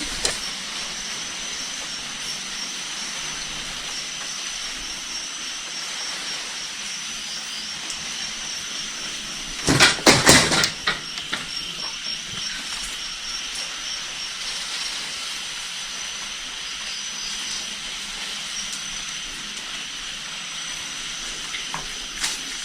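A steady hiss with a thin, high, unbroken whine over it, interrupted about ten seconds in by a brief cluster of loud knocks.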